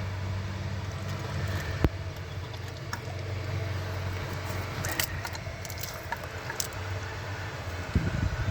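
Car engine running at a steady idle, with a few light clicks and a knock over the top.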